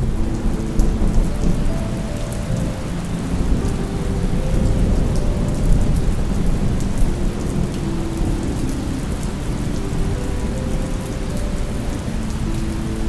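Steady rain with a low, rolling rumble of thunder, and a slow, soft melody underneath.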